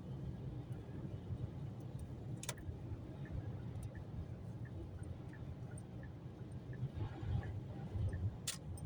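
Car driving on a snowy highway, heard from inside the cabin: a steady low road and engine rumble. A light, regular ticking about one and a half times a second runs through the middle, and two sharp clicks come about six seconds apart.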